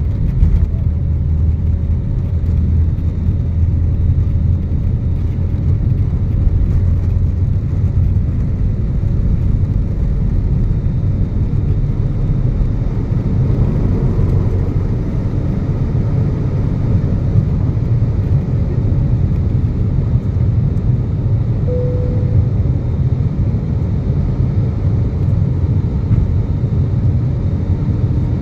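Cabin noise of an Airbus A320neo during takeoff: the steady low rumble of its CFM LEAP-1A turbofan engines and the airflow over the fuselage.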